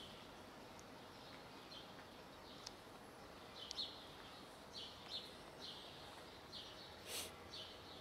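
Faint outdoor background hiss with scattered short, high bird chirps, coming more often from about halfway through, and one louder brief burst near the end.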